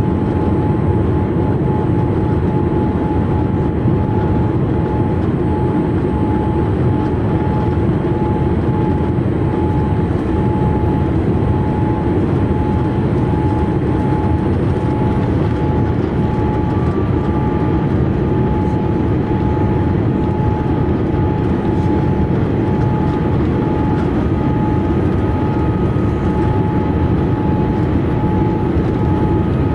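Steady cabin noise of a Boeing 787-8 airliner in flight, a low even rush of airflow and engines, with a thin steady whine throughout and a fainter, higher whine coming in about halfway.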